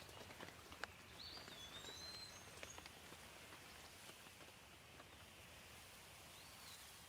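Gentle rain falling steadily, with scattered individual drips and a few faint whistled bird calls gliding in pitch, about a second in and again near the end.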